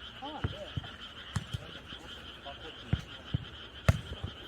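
Frogs croaking in a steady chorus, with several sharp thuds of a jokgu ball being kicked and bouncing.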